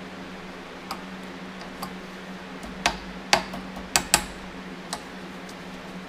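Light clicks and knocks of metal engine parts and hand tools being handled on a workbench during engine assembly: about seven separate taps, bunched in the middle, over a steady low hum.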